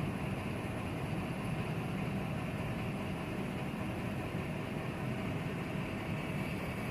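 Steady idling engine hum, even and unbroken, with no distinct knocks or clanks.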